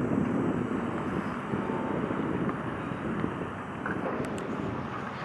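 Wind buffeting the microphone over a steady low rumble, with a few faint ticks near the end.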